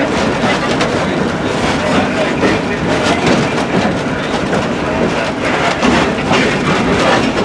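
Excursion train cars rolling along the track, heard from aboard: a steady rumble with frequent clicks and rattles from the wheels and car.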